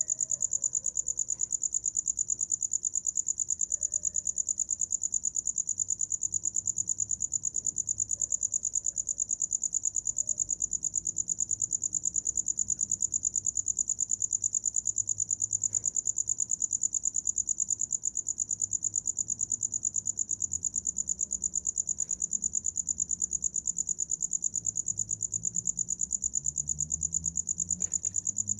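A cricket chirping without a break: one high-pitched note repeated in a fast, even pulse.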